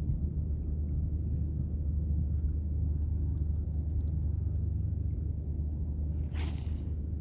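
Steady low rumble throughout, with a few faint high clicks in the middle and a short burst of hiss near the end.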